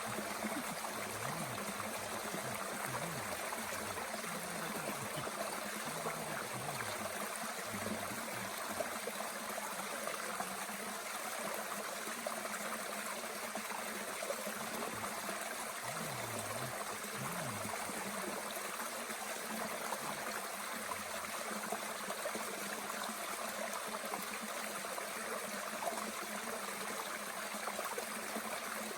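Mountain stream running steadily, an even rushing of water with a few faint ticks.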